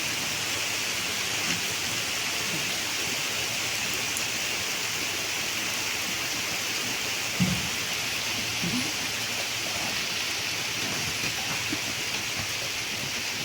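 Steady rain falling, an even hiss, with a brief low thump about halfway through.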